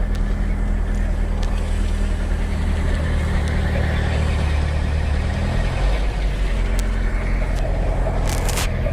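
Robinson R22 helicopter's four-cylinder piston engine idling steadily in the cabin, its rotor clutch not yet engaged. A few sharp clicks come near the end.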